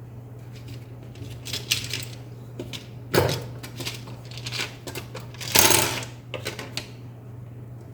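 Scattered small metallic clicks and clinks of tiny laptop screws and a screwdriver being handled as the screws are tightened, the loudest about three seconds in and again near six seconds, over a steady low hum.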